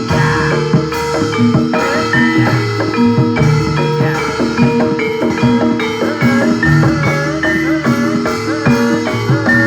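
Barongan accompaniment music from a Javanese gamelan-style ensemble: repeating metallophone notes over drums in a steady rhythm, with a wavering melody line joining in the second half.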